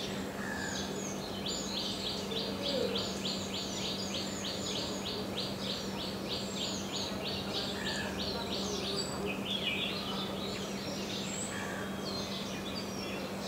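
Birds calling: a steady series of even, high, clipped notes at about three a second runs for several seconds and stops, over scattered chirps from other birds and a faint steady low hum.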